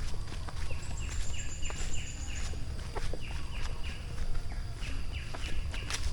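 A bird calling in two quick runs of short, downward-sliding notes, with a thin high whistle falling slowly in the first run, over a steady low rumble of jungle ambience and a few soft clicks.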